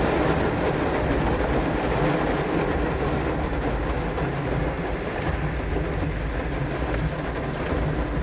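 Heavy rain falling: a steady, dense rushing noise with a low rumble underneath.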